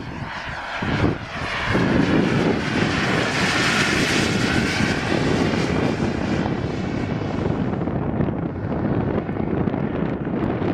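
Model jet's turbine engine running in flight: a loud rush of jet noise with a high whine on top, loudest about four seconds in. The high end fades over the last few seconds as the sound eases off.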